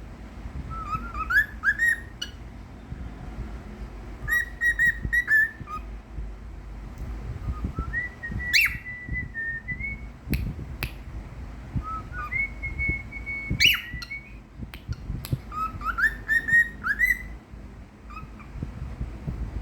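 Cockatiel whistling its song: five short phrases of quick rising whistles and held notes, with pauses between them. Two sharp clicks stand out, one near the middle and one about two-thirds in.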